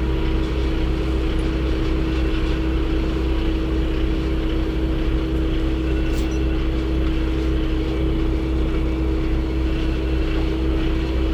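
A machine running steadily with a constant hum and low rumble, unchanging in level.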